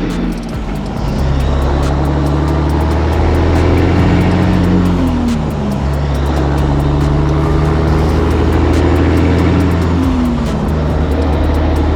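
Semi truck's diesel engine pulling away under load, climbing in pitch through each gear and dropping at the shifts, about five and ten seconds in.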